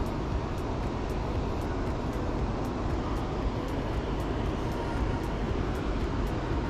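Steady rushing of river water: a constant, unbroken noise, heaviest in the low end.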